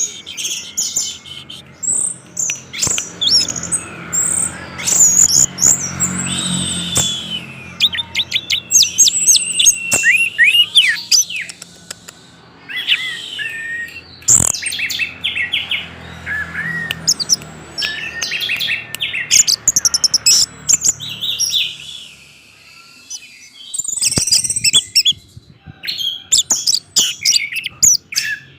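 Orange-headed thrush singing loudly and continuously: a rapid, varied run of high whistles and trills with a few short breaks, over a faint low hum.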